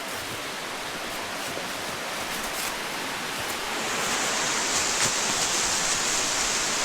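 Waterfall rushing in a steady roar of falling water, growing louder about four seconds in.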